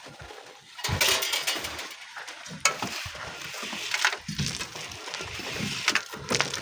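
Loose sand and stones crunching and scraping as they are dug and moved, with several sharp knocks spread through.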